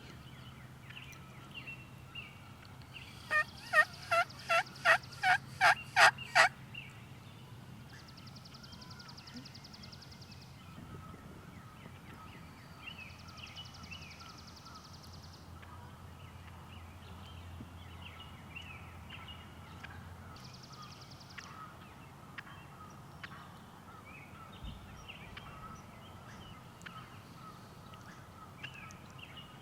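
Wild turkey hen yelping: a run of about eight loud, evenly spaced yelps lasting some three seconds. Small birds chirp faintly throughout, and a short buzzy trill comes three times later on.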